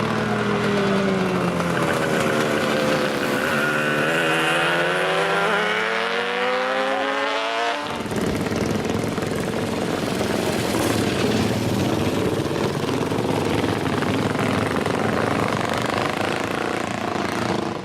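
Vintage motorcycle engines running: one engine note bends down and up in pitch for about eight seconds, then breaks off abruptly into a rougher, noisier engine sound.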